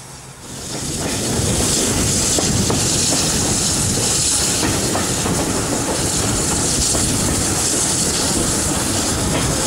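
A passenger train coach running at speed, heard from an open window: steady rolling noise and wind rush, with the clickety-clack of its wheels over rail joints. The sound starts abruptly about half a second in.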